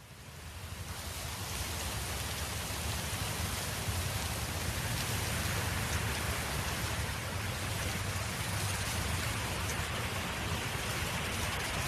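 Steady wind noise: a broad rushing hiss with a strong low rumble, fading in over the first couple of seconds and then holding even.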